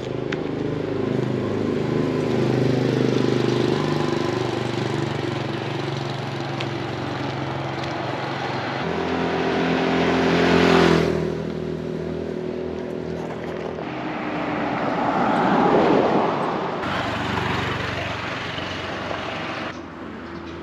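Motor vehicles driving past on a street one after another, their engines rising and fading; the loudest passes close by about halfway through, and another swells up a few seconds later.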